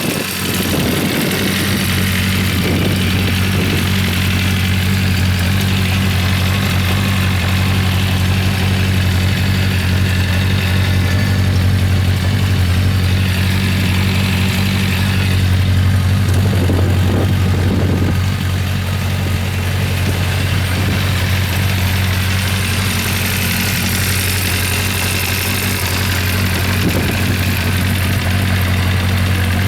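Honda CB400FOUR's 408cc air-cooled inline-four engine idling steadily.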